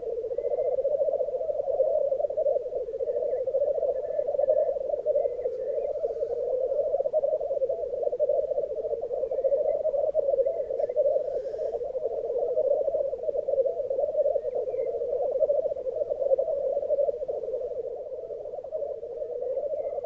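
Lekking black grouse cocks rookooing: a continuous bubbling, cooing chorus from several males that swells and dips without a break. Short, faint higher calls rise over it now and then.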